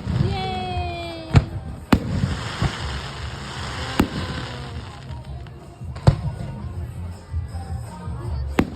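Fireworks bursting: about half a dozen sharp bangs at irregular intervals over a low rumble, with a slightly falling whistle lasting about a second just after the start.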